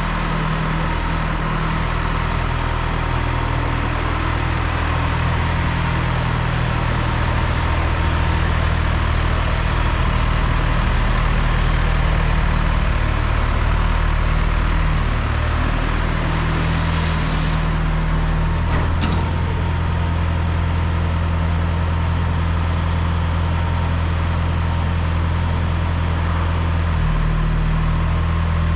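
1974 John Deere 2030 tractor engine running steadily, its low drone shifting slightly in pitch a few times. A brief knock about nineteen seconds in.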